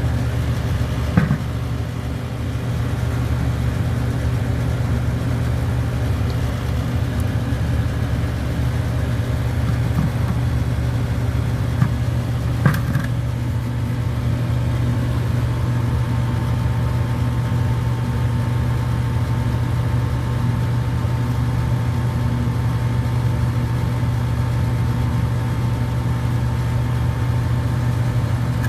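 A steady low engine-like drone, with a couple of short knocks about a second in and again about halfway through.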